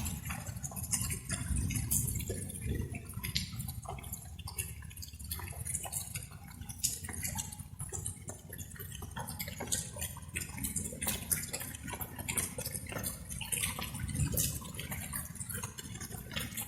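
Light rain: water drops falling and dripping in quick, irregular taps over a steady low rumble.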